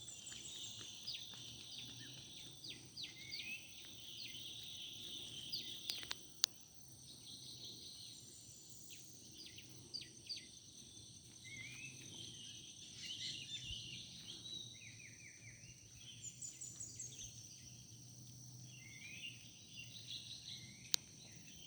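Dawn chorus of wild forest birds: many short chirps, trills and calls from several birds, over a steady high insect drone. Two sharp clicks stand out, one about a third of the way in and one near the end.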